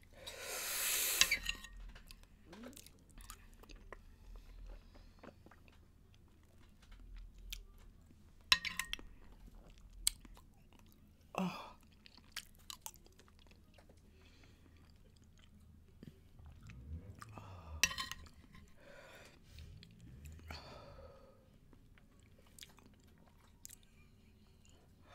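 A person chewing soft fruit gelatin (Jell-O) in mouthfuls, with quiet wet mouth sounds and a few light spoon clicks. Near the start there is a strong breath out of about a second and a half, blowing against the burn of the 2x spicy sauce.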